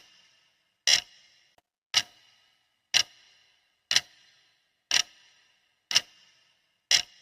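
Clock ticking: one sharp tick every second, each with a brief ringing fade.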